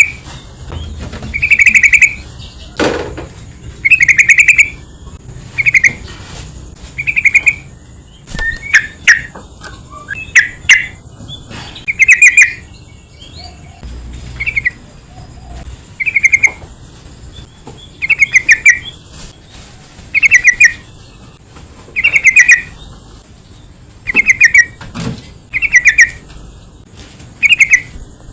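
Yellow-vented bulbul (trucukan) calling: short warbled phrases repeated about every two seconds, with a looser run of quicker chirps about a third of the way in.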